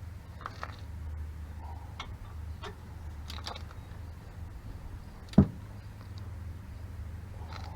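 Scattered light clicks and one sharp knock about five seconds in, over a steady low hum: tools and parts being handled during a front brake rotor and pad job.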